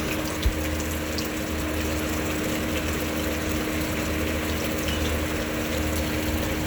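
Steady rain falling, a continuous even hiss, with a low steady hum beneath it and one brief low thump about half a second in.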